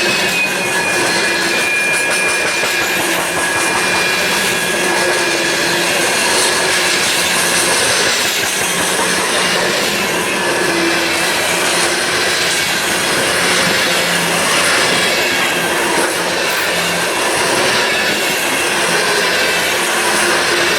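Freight train cars rolling past, wheels clicking over rail joints with thin, steady wheel squeal. The sound is loud and even throughout.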